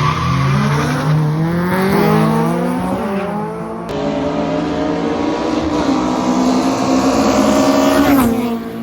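Drag-racing cars accelerating hard, the engine note climbing in pitch again and again through gear changes. Near the end the note drops sharply as they lift off.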